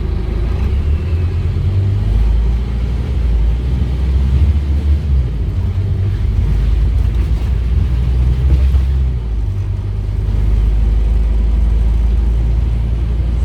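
Scania OmniCity double-decker bus running, its Scania DC9 five-cylinder diesel and ZF Ecomat automatic gearbox giving a steady low rumble, with a few shifts in its note as the bus drives.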